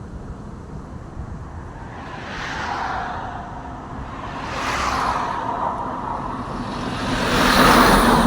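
Road vehicles passing by one after another: three swells of tyre and engine noise, each rising and fading, the third the loudest, near the end.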